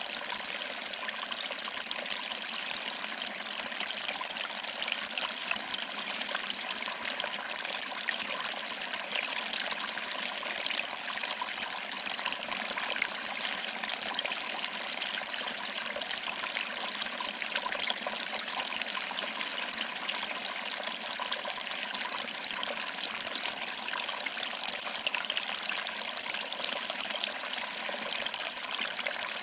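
Small waterfall trickling over rocks and splashing into a pool below, a steady, even rush of water with little deep rumble.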